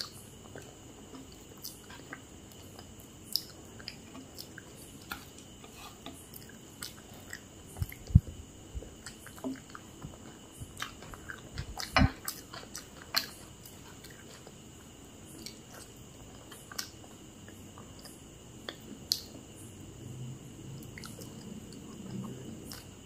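A person chewing food close to the microphone, with many small wet mouth clicks and a few louder knocks about eight and twelve seconds in.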